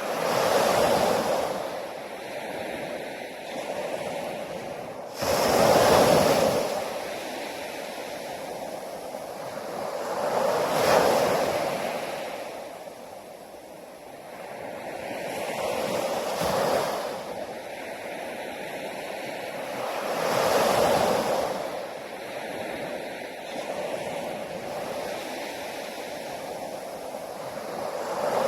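Sea waves breaking on a beach, surging in about every five seconds with a steady wash of surf between them; the second wave, about five seconds in, comes in suddenly.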